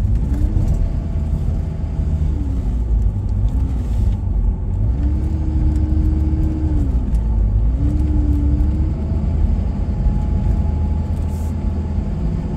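Car driving, heard from inside: a steady low road and engine rumble, with the engine note rising and falling several times as the speed changes.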